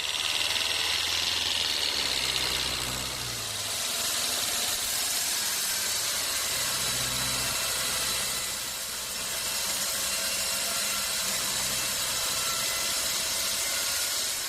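A motor or engine running steadily, its low note shifting in pitch a couple of times.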